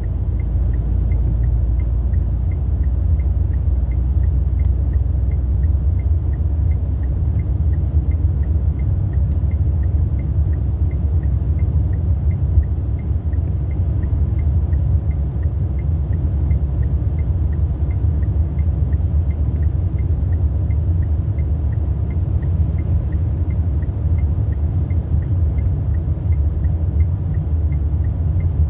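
Steady low rumble of a car driving, heard from inside the cabin: engine and tyre noise on a snowy road. A faint, regular ticking repeats about twice a second.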